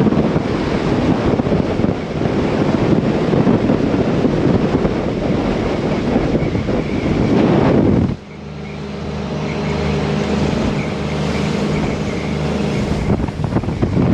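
The Sea Ray 380 Sun Sport underway, with wind buffeting the microphone over the engines and rushing water. About eight seconds in, the sound changes suddenly to a quieter, steady engine drone with little wind.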